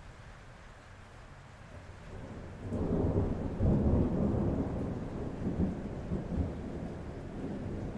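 Thunder rolling in about two and a half seconds in: a low rumble that swells to its loudest a second later and keeps rumbling more softly, over steady rain on a roof.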